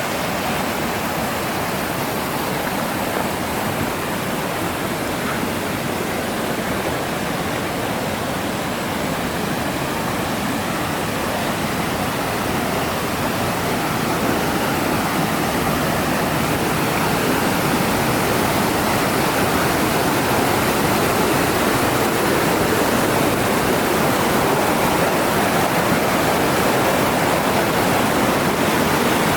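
Waterfall's falling water rushing steadily, growing a little louder about halfway through.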